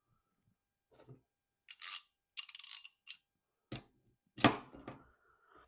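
Small metal tools and parts clinking and rattling in scattered bursts as a cassette tool is handled, with one louder knock about three-quarters of the way through.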